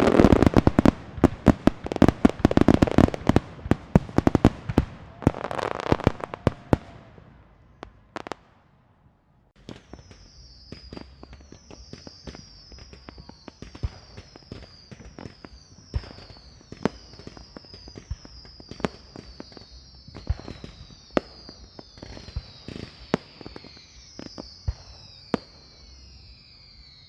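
A string of firecrackers going off in a fast, dense crackle of loud bangs for about seven seconds, then dying away. After a short lull, fireworks pop sparsely and a run of short, high, falling whistles repeats over them.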